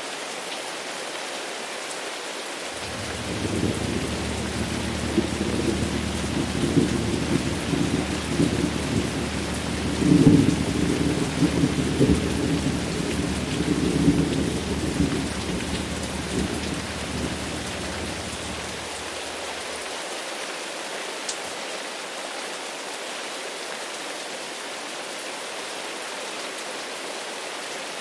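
Steady rain falling, with a long rolling rumble of thunder that builds from about three seconds in, is loudest near the middle and dies away a few seconds later.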